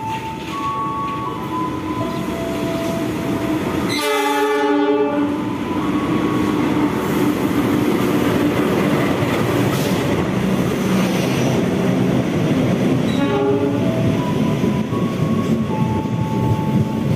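A CC 206 diesel-electric locomotive (GE-built) hauling a long-distance passenger train through a station at speed. Its horn sounds a blast of about a second roughly four seconds in, and a shorter blast after thirteen seconds. The rush of locomotive and carriages over the rails grows loud as it passes and stays loud.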